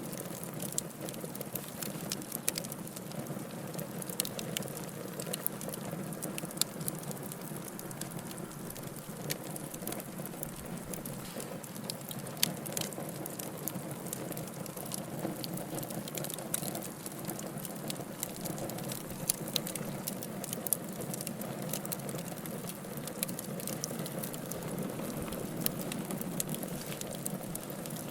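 Wood fire in a fireplace crackling, with a steady low rushing bed and frequent irregular sharp pops and snaps.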